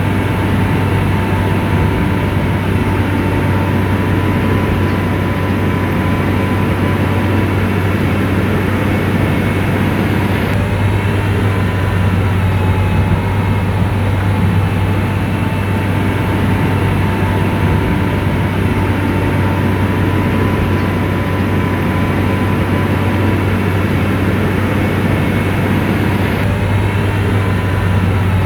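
Diesel engine of an SDLG motor grader running steadily, a deep drone with a faint high whine above it.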